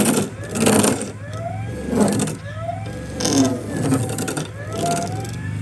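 Handheld electric power tool running against wood. Its motor pitch swings up and down and the grinding noise surges about once a second, in step with repeated strokes over the surface.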